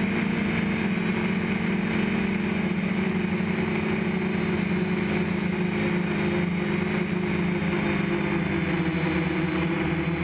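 DJI F550 hexacopter's electric motors and propellers running steadily in flight, a constant hum with only small shifts in pitch over a hiss of rushing air.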